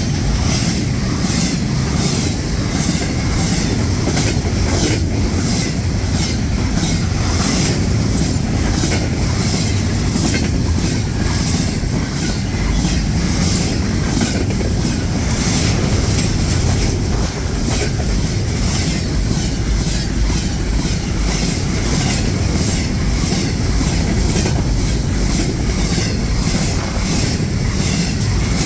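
Freight train cars rolling steadily past, a continuous rumble with a repeating clickety-clack of wheels over the rail joints.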